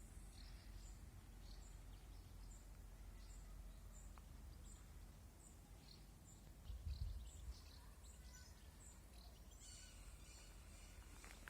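Faint outdoor ambience with small birds chirping: short high calls repeat evenly about every half second over scattered chirps. A brief low rumble comes about seven seconds in.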